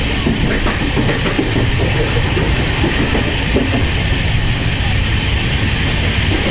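Udyan Express passenger train running through the ghat, heard from on board: a steady, loud rumble of the coaches' wheels on the rails.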